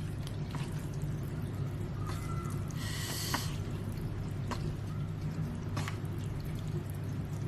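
Samyang spicy instant noodles being stirred and mixed in their sauce: soft wet, sticky squishing with a few light clicks of the utensil. There is a short breath-like hiss about three seconds in, over a steady low hum.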